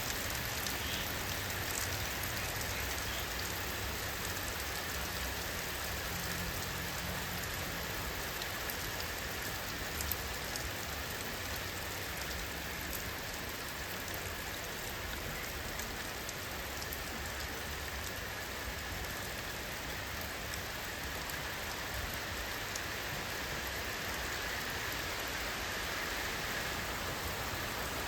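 Steady rainfall: an even hiss of rain on surfaces, dotted with scattered raindrop ticks, with one slightly louder tap about ten seconds in.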